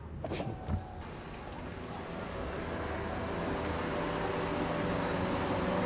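Car sounds: a few short knocks in the first second, then a steady noise that slowly grows louder as held background music notes fade in about two seconds in.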